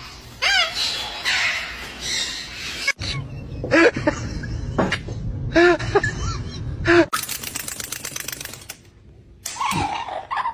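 Parrot calls: a quick falling run of chirps, then four short rising-and-falling calls about a second apart, and a burst of rough noise after a cut.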